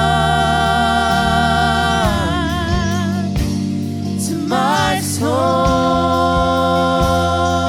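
Contemporary worship song: a voice holding long notes with vibrato, gliding between pitches, over a steady band with bass and drum hits.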